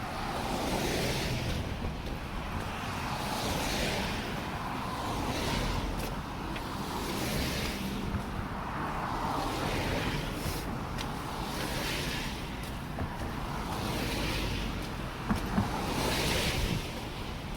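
Road traffic passing on the bridge, tyre noise swelling and fading as car after car goes by, over a steady wind rumble on the microphone. Two brief sharp taps come near the end.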